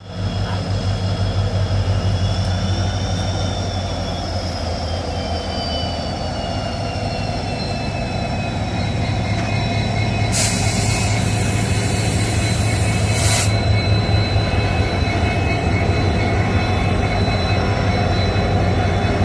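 Goods train pulling out of a station: a steady low rumble of the train, with thin high wheel squeals that slowly fall in pitch over the first several seconds. A hiss lasting about three seconds comes around the middle.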